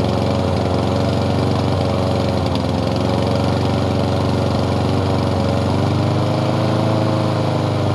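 Small lawn mower engine running steadily.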